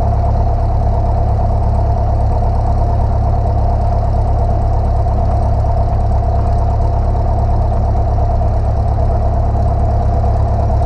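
Light single-engine airplane's piston engine running steadily at low taxi power, heard from inside the cockpit as a deep, even drone with a steady higher hum.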